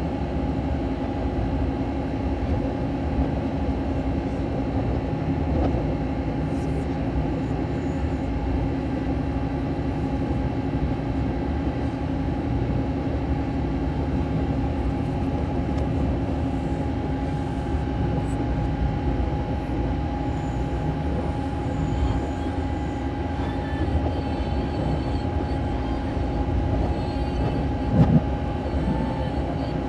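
Vitória a Minas passenger train running along the track: a steady rumble with a steady hum through it, and a brief louder burst near the end.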